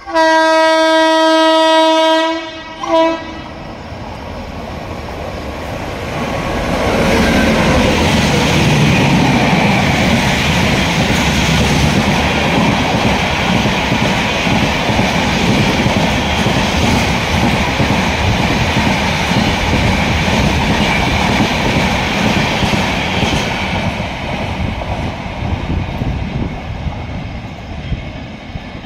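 Express passenger train's locomotive horn sounding one long steady blast of about two seconds, then a short toot. The train then runs through the station at full speed: the wheel and track noise builds up, clatters loudly for most of the passage, and eases off near the end.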